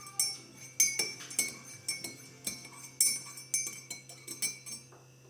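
A metal spoon stirring a hot drink in a cup, clinking against the sides about twice a second with a short ring after each knock, then stopping near the end.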